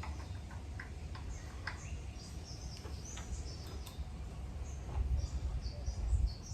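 Small birds chirping repeatedly in short, high notes, over a low rumble that grows louder near the end, with a few faint clicks.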